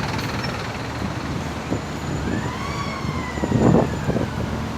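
An emergency-vehicle siren sounds one wail, rising and then slowly falling, over steady traffic and wind noise. A short knock or handling thump comes near the end and is the loudest moment.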